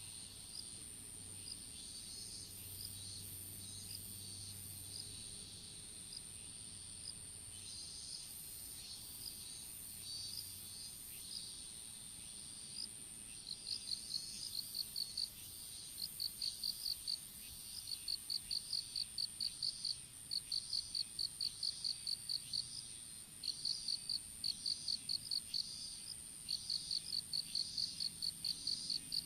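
Insects chirping in a field: one very high, steady trill runs throughout, and from about halfway another insect chirps in loud trains of rapid pulses, several trains in a row.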